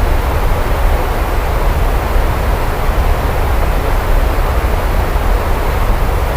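Steady heavy rainfall, an even hiss of rain with a continuous deep rumble underneath.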